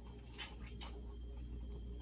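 Chewing a bite of crisp fried chicken: a few soft crunches and wet mouth clicks, over a low steady hum.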